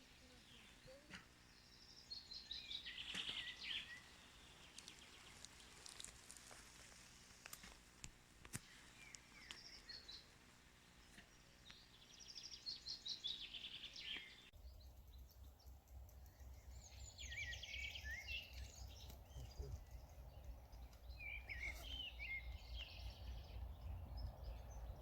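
Songbirds singing faintly in woodland: short trilling phrases of quick high notes every few seconds. About halfway through, a steady low rumble comes in underneath.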